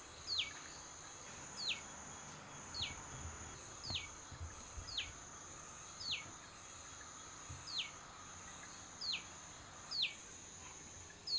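A bird repeating a short, falling call about once every second or so, ten times in all, over a steady high-pitched insect drone.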